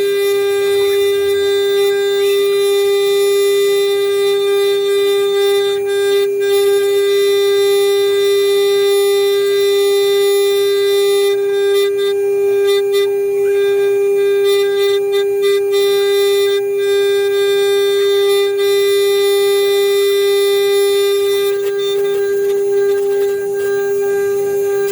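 CNC router spindle running at a constant speed: a steady, loud whine with a stack of overtones and no change in pitch.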